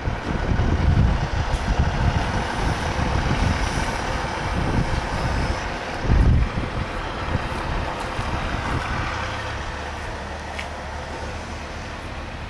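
Heavy truck engine running with a low rumble that settles into a steadier hum and slowly fades, with wind buffeting the microphone, strongest about six seconds in.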